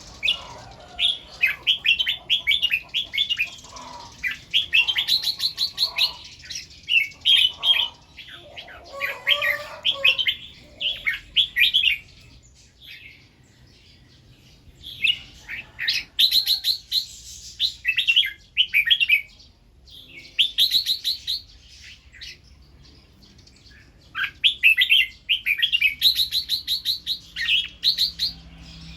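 Red-whiskered bulbul singing in bursts of quick, bright, warbled phrases that run together in groups, broken by two short pauses, one about halfway through and one about two-thirds of the way in.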